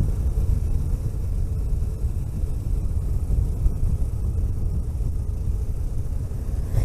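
Vehicle driving along a road: a steady low rumble of engine and tyre noise, with a brief rushing sound right at the end.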